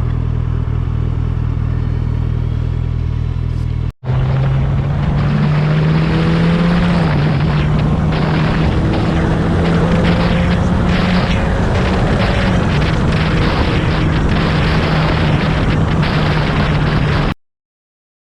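Motorcycle engine running at a steady cruising speed, with wind noise over the microphone. The sound drops out for an instant about four seconds in, and the engine note comes back slightly higher; the sound cuts off near the end.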